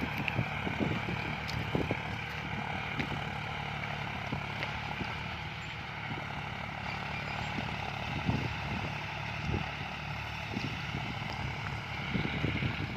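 John Deere tractor diesel engines running steadily under load while pulling disc plows through the soil.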